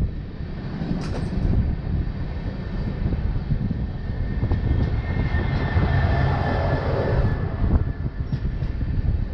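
Passenger train of LHB coaches running at speed: a steady low rumble and rush, with wind buffeting the microphone.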